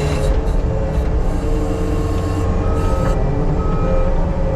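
Engine of an earthmoving machine running steadily under work, with a backup alarm starting about two seconds in and beeping about once a second as the machine reverses.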